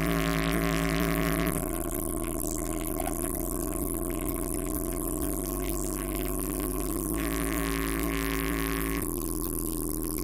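Huge stacked carnival sound system (sound horeg) pumping out deep, distorted bass under a steady hiss, with a few held notes near the start and again near the end.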